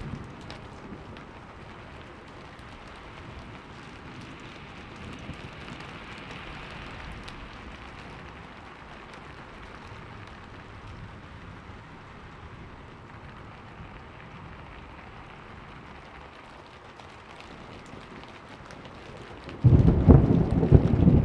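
Steady rainfall with scattered drop ticks, then near the end a sudden loud clap of thunder that rumbles on.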